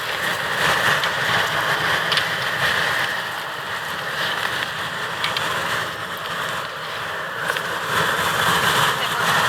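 Steady rushing wind, with a few faint ticks.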